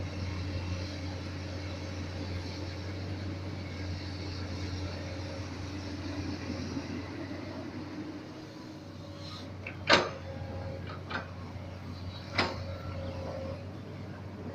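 Komatsu PC200 hydraulic excavator's diesel engine running steadily, easing a little past the middle. Sharp knocks break in about two-thirds of the way through, the loudest first and two smaller ones after it.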